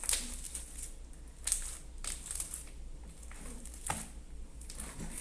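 A large mass of slime being kneaded and stretched by hand, giving several short wet crackling, clicking noises as it starts to come away from the hands.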